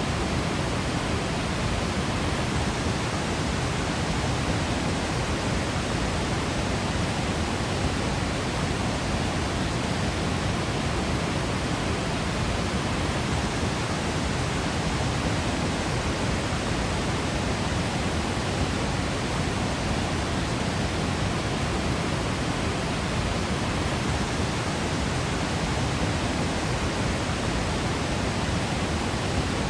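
Waterfall's steady rush of falling water: an even, unbroken hiss with no changes in level.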